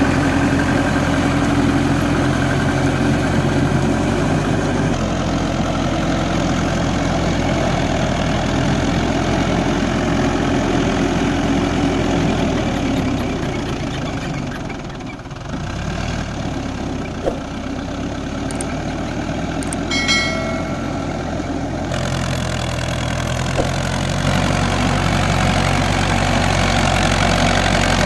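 Tractor diesel engine running at a steady speed, dropping away for a moment about halfway through and then coming back up. A brief high-pitched tone sounds about twenty seconds in.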